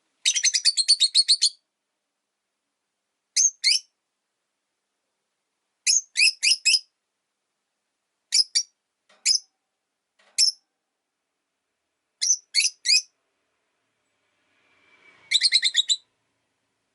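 Rosy-faced lovebird chirping: sharp, high-pitched chirps in short groups of two or three every couple of seconds, with a rapid run of about ten chirps at the start and another near the end.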